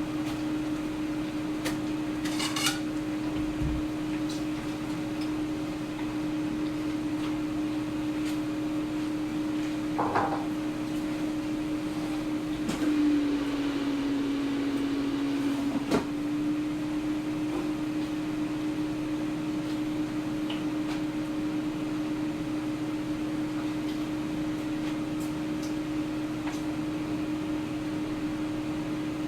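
Air fryer running: a steady fan whir with a low hum that dips slightly in pitch for a few seconds midway. A few short knocks sound over it.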